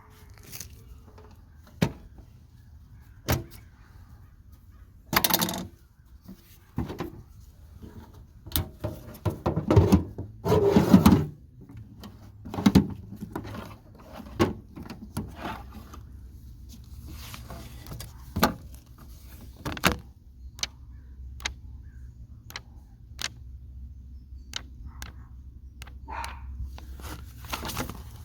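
Scattered metallic clicks, clinks and scrapes of hand tools and motorcycle parts being handled, with a louder clattering, scraping stretch about nine to eleven seconds in.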